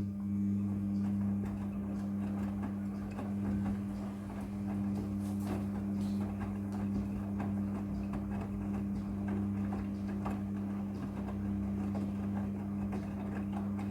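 Midea front-loading washing machine running: a steady electric motor or pump hum that starts suddenly, with irregular ticking and rattling over it.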